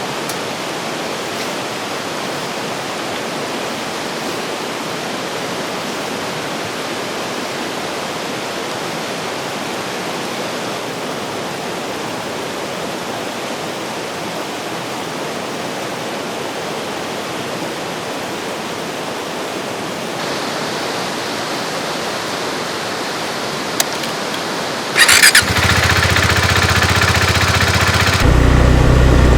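A rushing river runs steadily for most of the clip. Near the end, a Husqvarna Svartpilen 401's single-cylinder engine is started: the electric starter whines for a few seconds, then the engine catches and settles into a steady idle.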